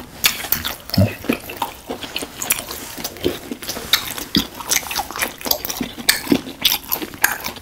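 Two people chewing fried, batter-coated Korean hot dogs close to the microphone: irregular crunchy clicks of chewing, several a second, with no talking.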